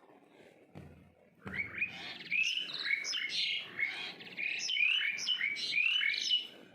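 A small bird chirping in a fast, continuous twitter of short high notes, starting about a second and a half in and stopping suddenly near the end. Two soft low bumps come just before it.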